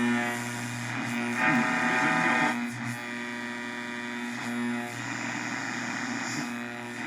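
Steady electrical hum from the speaker of a 1967–1972 GM truck AM radio, with a faint tone rising briefly out of it about a second and a half in.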